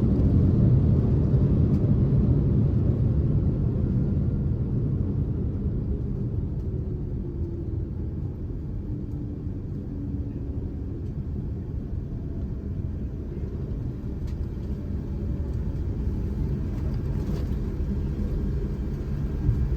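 Cabin noise inside a Boeing 787-10 on the ground after landing: a low rumble that eases off over the first several seconds as the airliner slows, then holds steady.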